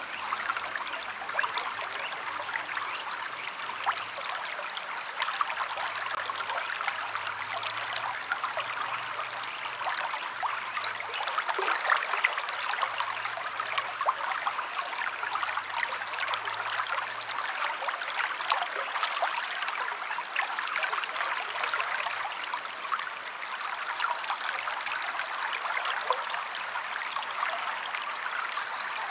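River water flowing over rocks: a steady rush with many small splashes.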